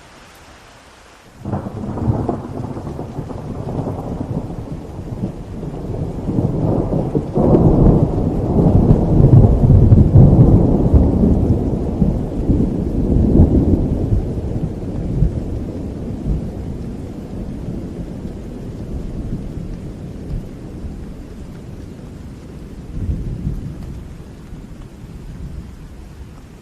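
A thunderclap breaks in suddenly about a second in, over steady rain. It becomes a long rolling rumble that swells to its loudest in the first half and slowly dies away, with a smaller swell near the end.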